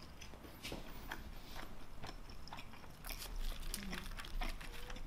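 Close-miked eating of bacon mac and cheese: a string of short, irregular biting and chewing clicks.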